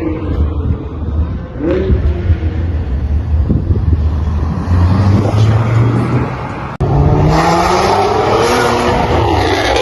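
Modified cars driving off at speed, engines rumbling low, then one accelerating hard with its engine pitch climbing and dropping through the gears. The sound cuts out briefly about seven seconds in.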